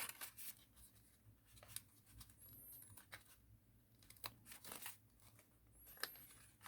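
Faint crinkling of thin origami paper being folded and creased by hand, a few soft crackles scattered through near silence.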